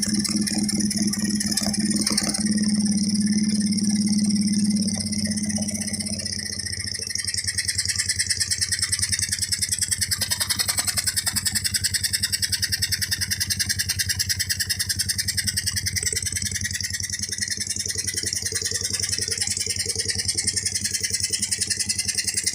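Homemade two-cylinder engine in a Honda GL motorcycle running. It holds a higher, stronger note for about the first six seconds, then drops back to a lower, evenly pulsing run.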